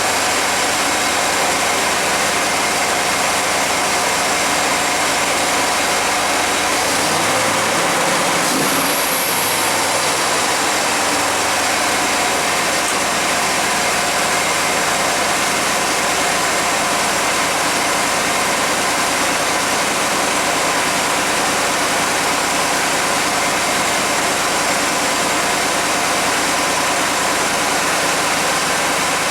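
1991 GMC Jimmy engine idling steadily with a strong hiss, while the owner hunts for a possible vacuum leak.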